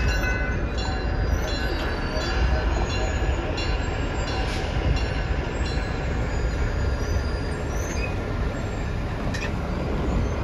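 Train moving slowly on the track, a steady low rumble throughout.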